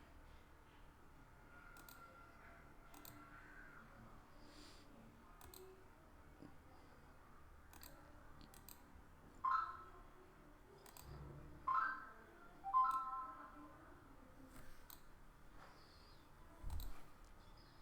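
Faint, scattered computer mouse clicks. Three short, louder pitched bird calls come in the middle, and a low thump near the end.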